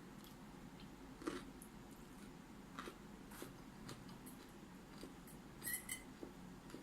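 Person chewing food: scattered small wet clicks and crunches, with a louder one about a second in and a quick cluster of clicks near the end.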